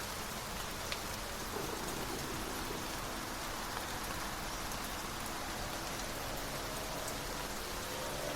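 Steady rain falling on a surface, an even hiss with a single click about a second in. A faint rising hum comes in near the end.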